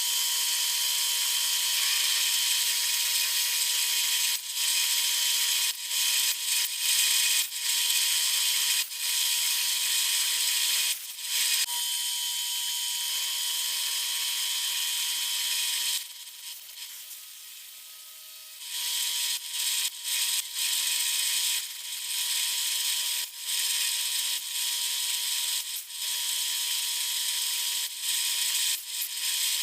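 Milling machine running steadily with a high whine, cutting a taper into an aluminium block; it drops away for a couple of seconds about halfway through, then carries on.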